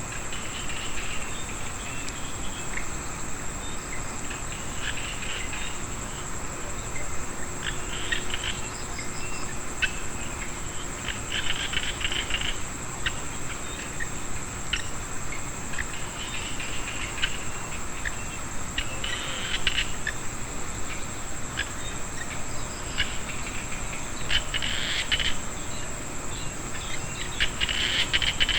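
Frog and insect chorus: small frogs give repeated bursts of rapid clicking calls, about a second each and thickest near the end, over a steady high-pitched insect trill.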